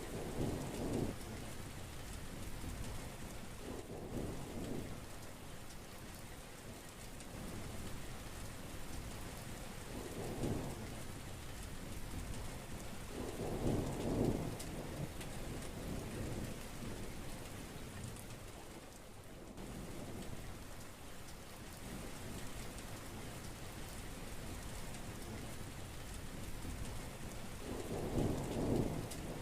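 Steady heavy rain falling, with several low rolls of thunder breaking through it, the loudest about halfway through and another near the end.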